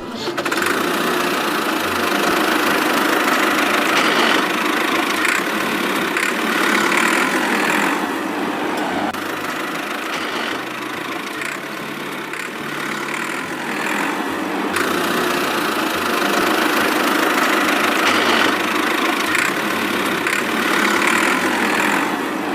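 Steady engine-like running sound, like a tractor idling, that slowly swells and eases in level.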